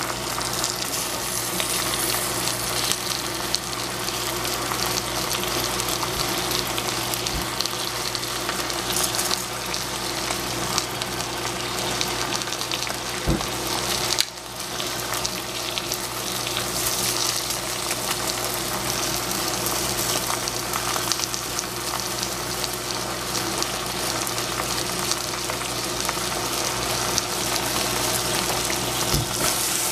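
Spinach frying in oil in a pan: a steady sizzle that dips briefly about halfway through, then carries on.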